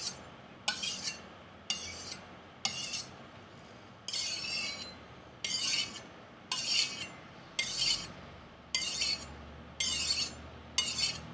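Chinese chef knife's edge drawn repeatedly across a sharpener, sharpening the back (heel) section of the blade: about one scraping stroke a second, each a short hiss, some starting with a light click.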